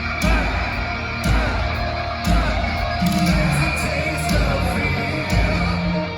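Heavy metal band playing live: distorted guitars and drums with singing, a heavy accent landing about once a second.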